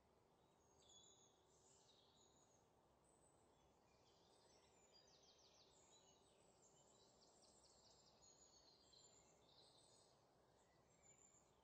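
Near silence, with faint bird chirps and short trills over a low background hiss.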